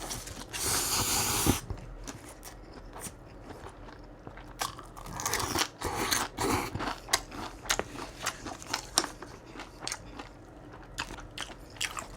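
Close-miked eating sounds: chewing and biting with many sharp mouth clicks, a loud slurp of miso soup about a second in, and more slurping and chewing noise around the middle.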